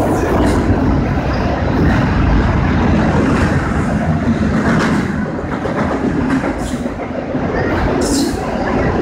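Train cars rolling past on the rails in a loud, steady rumble, with a few brief, sharp high-pitched sounds from the wheels.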